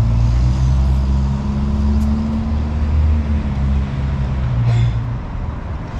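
A motor vehicle's engine running nearby with a low, steady hum that fades out about five seconds in.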